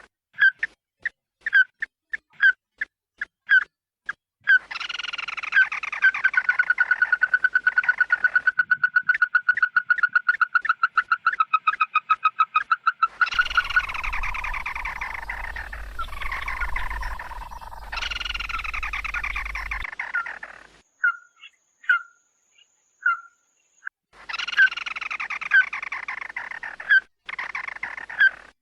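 Bird calls of the species sold as "chim mắt đỏ" (red-eyed bird), played as a lure recording. Spaced single whistled notes build into a long, fast run of repeated notes. A harsher, chattering passage with a low rumble underneath follows, then a few scattered notes and more chattering near the end.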